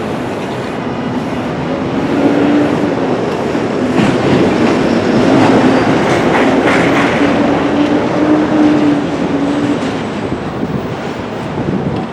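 Loud noise of a train going by, with a steady drone, building about two seconds in and easing toward the end.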